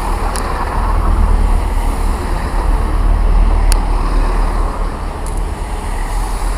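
A train running through the station: a loud, steady rush of noise over a deep rumble, with a few sharp ticks.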